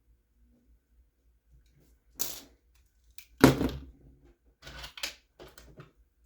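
Small plastic RC truck parts and tools being handled on a work surface: scattered clicks and knocks, with the loudest, heavier knock about halfway through and a run of lighter clicks after it.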